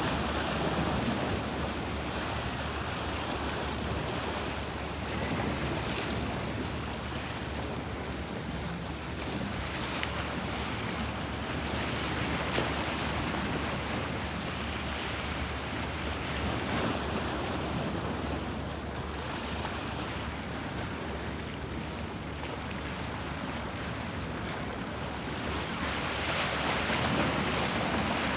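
Bosphorus sea waves washing and splashing, a continuous rush of water that swells repeatedly and is loudest near the end, with wind on the microphone.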